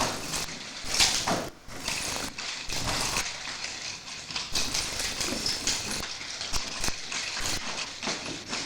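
Nunchaku being swung, making irregular whooshes and knocks.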